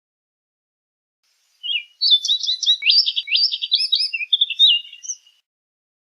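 Orchard oriole singing one rapid, jumbled phrase of varied whistled notes and slurs. It starts about a second and a half in and stops after roughly three and a half seconds.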